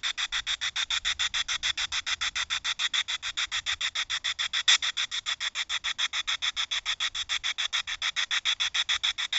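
Spirit box radio sweeping through stations: a steady run of short bursts of static, about seven a second.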